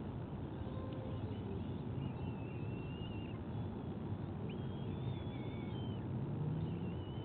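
Three high, thin, wavering whistled bird calls, each about a second long, over a steady low background rumble.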